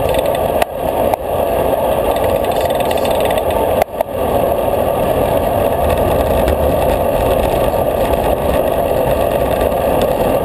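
Steady wind and road noise rushing over the microphone of a camera on a moving road bicycle, with brief dips about a second in and near four seconds in.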